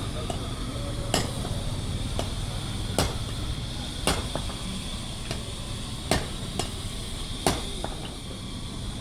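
About six sharp hammer blows at uneven intervals, over a steady low hum with a faint high whine.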